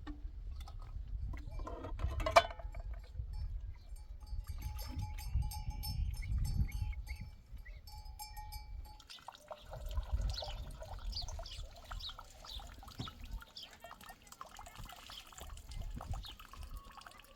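A flock of sheep and goats, with bleating and the clink of animal bells, and a sharp knock about two seconds in.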